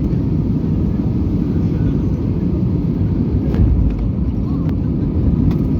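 Airbus A320-200 cabin noise heard from a rear window seat: a steady, loud low rumble of the jet engines and airflow, with a couple of faint clicks.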